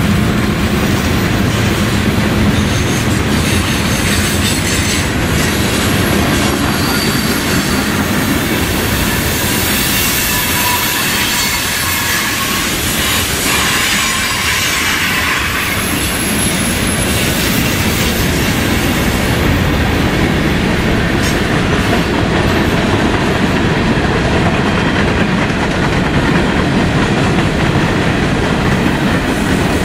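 Freight train cars rolling past, their steel wheels running steadily on the rails, with thin high wheel squeals around the middle.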